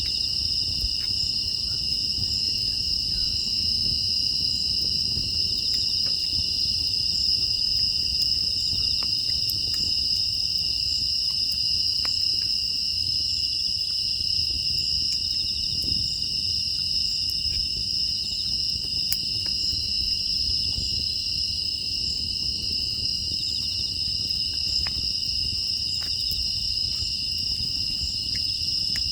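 A chorus of crickets and other grass insects trilling steadily without a break, with faint, scattered crackles from a wood fire.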